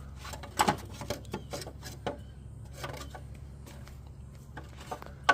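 Scattered light taps and clicks over a steady low hum.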